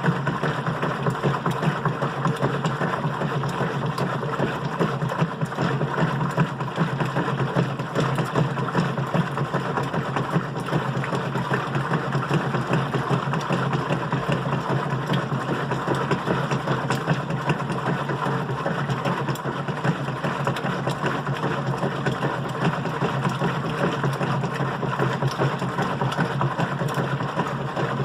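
GE Profile washing machine running: a steady low hum with a fast, fine rattle over it, unchanging throughout.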